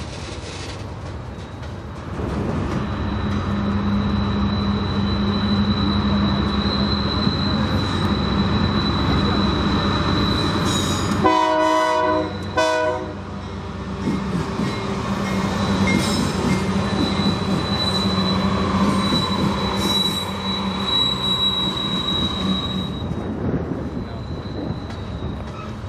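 A diesel-hauled freight train rolling past, with a steady high wheel squeal over the rumble of the cars. About halfway through, the locomotive horn sounds one long blast and then a short one.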